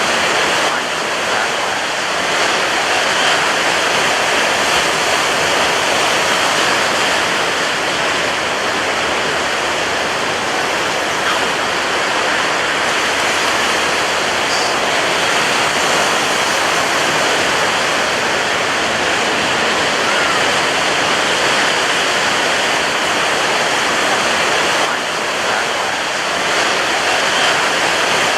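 Ocean surf breaking on a beach: a continuous, even rush of water with little rise and fall.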